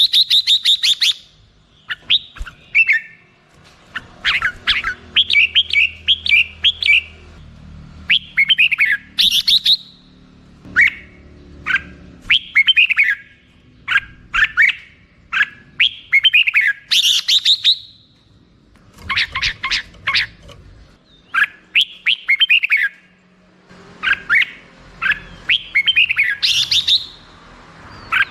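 Red-whiskered bulbul singing: short, bubbling phrases of quick notes, many sweeping downward in pitch, repeated every second or two with brief pauses between them.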